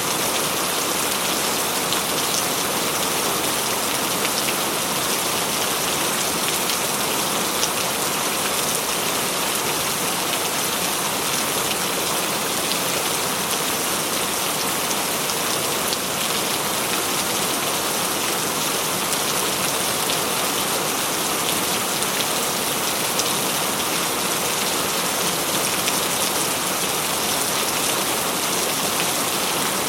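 Heavy rain falling steadily on a tin roof, with individual drops ticking sharply through the constant hiss.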